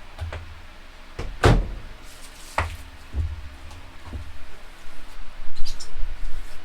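A series of knocks and thumps, about six in the first four seconds, the loudest about one and a half seconds in, followed by light clicks near the end.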